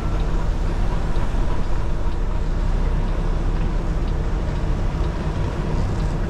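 Kenworth T680 semi truck's diesel engine running steadily during a slow manoeuvre, a continuous low rumble with no sudden changes.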